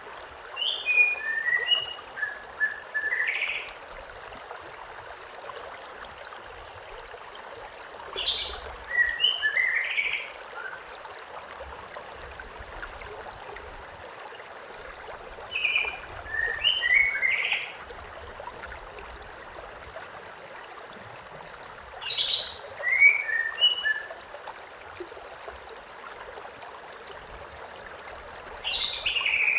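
A songbird singing the same short phrase of quick, mostly falling notes five times, about every six or seven seconds, over the steady rush of a stream.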